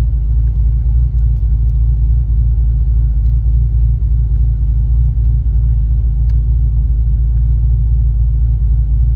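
Cadillac CTS-V wagon's supercharged V8 running steadily at low revs, a deep, even rumble heard from inside the car.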